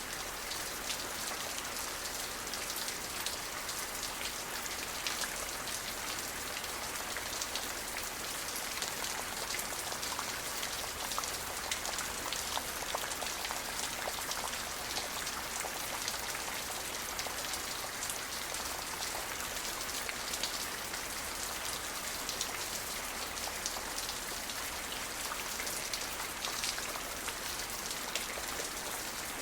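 Steady rain falling, with many individual drops ticking on a hard surface amid an even hiss.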